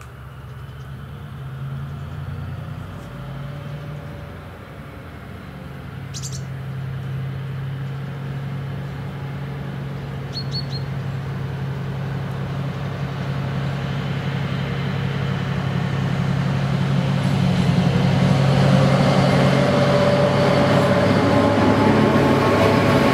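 Approaching diesel passenger train: a low engine drone grows steadily louder, and rail and running noise build up strongly in the last several seconds before it reaches the crossing. A bird chirps briefly about ten seconds in.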